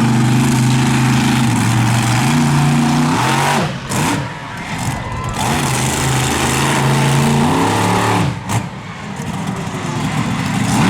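Monster truck engine running hard at high revs. It drops off sharply twice, about a third of the way in and again near two thirds, and revs back up each time.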